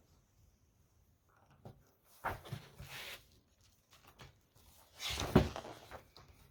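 Handling noise from a sound-button board book: two bursts of rustling and knocking, one about two seconds in and a louder one about five seconds in.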